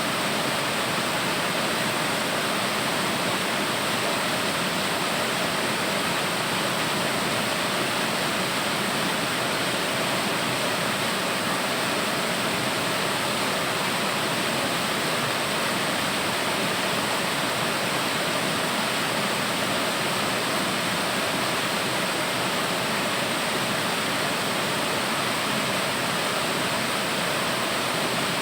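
Waterfall: water falling and splashing, a steady rush that never changes.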